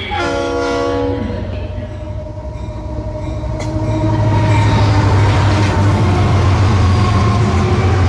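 A train horn sounds for about a second, then comes the steady rumble of a moving train, which grows louder from about four seconds in.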